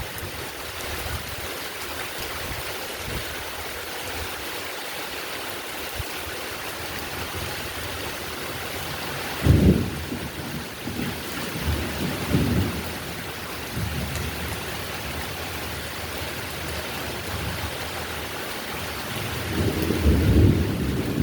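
Heavy rain falling steadily as a continuous hiss, with rolls of thunder rumbling low about halfway through and again near the end.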